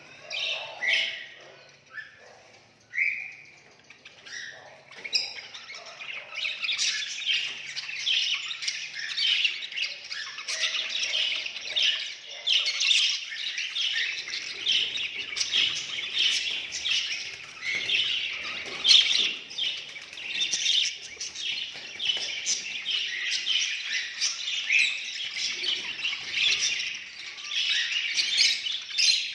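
Budgerigars chattering and chirping: a few separate calls at first, then continuous warbling chatter from about five seconds in.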